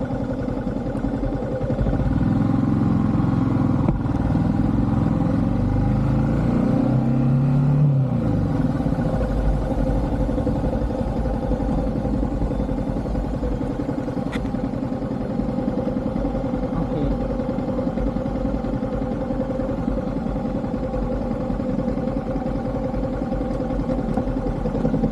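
Yamaha MT15 V2's single-cylinder engine running under way. It climbs in pitch for several seconds about two seconds in, then holds a steady note.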